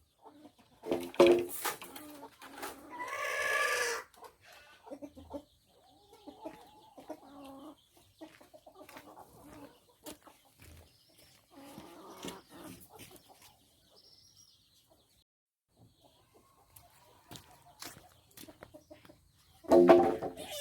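Chickens clucking in several short bouts, with a louder, harsher call about three seconds in.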